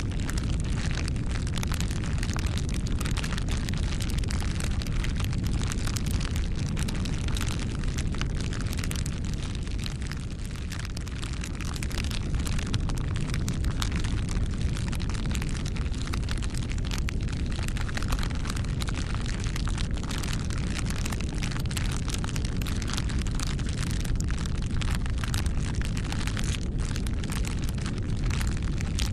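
Wood fire burning, with a steady low rumble and frequent small crackles and pops.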